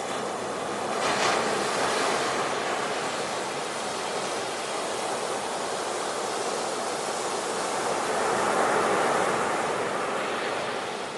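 Ocean surf: a steady rush of waves that swells as a wave breaks about a second in and again near the end.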